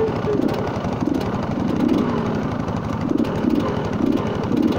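Motorcycle engine running steadily, with a fast, even pulsing throb.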